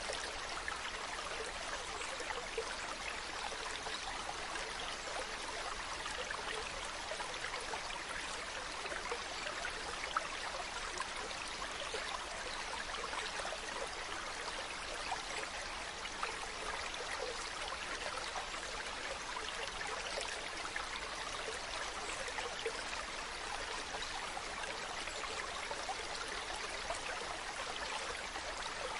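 Shallow mountain stream flowing and babbling over rocks: a steady rush of water with small splashes and gurgles flickering through it.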